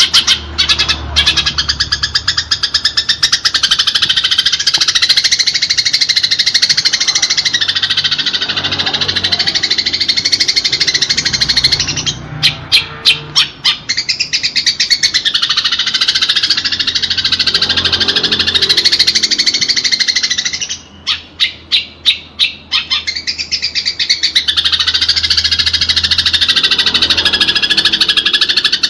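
Eurasian tree sparrows chattering in a fast, dense stream of chirps, the agitated calls of sparrows squabbling. The stream breaks into separate chirps twice, about twelve seconds in and again near twenty-one seconds.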